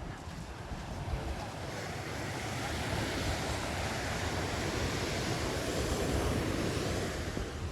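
Ocean surf: a wave breaks and washes in, the rush swelling over a few seconds and easing off near the end.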